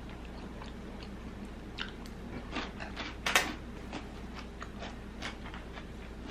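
Scattered light clicks and taps, with one louder sharp clack a little over three seconds in, over a low steady hum.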